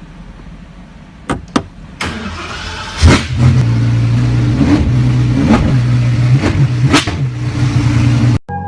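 Apollo IE's V12 engine starting up, then idling loudly with several sharp throttle blips, after two short clicks. The sound cuts off suddenly near the end.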